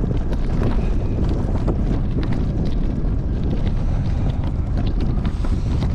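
Wind buffeting the microphone: a loud, steady low rumble with scattered small crackles.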